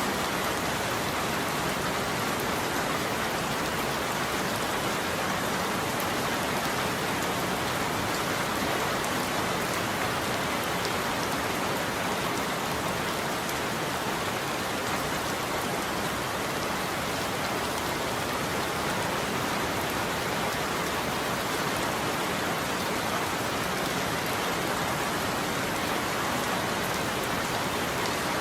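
Steady rain falling hard on a surface, an even rushing patter with no thunder.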